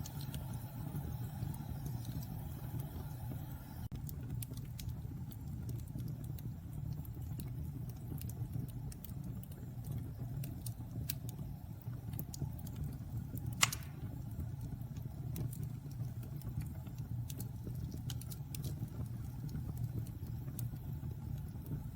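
Wood fire burning in a fireplace: a steady low rumble of flames with scattered sharp crackles, and one loud pop about two-thirds of the way through.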